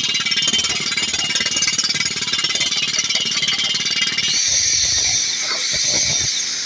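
Crawler rock drill's percussive hammer drilling into rock, a fast continuous hammering; a little over halfway through it gives way to a loud steady hiss of air with a few low thumps.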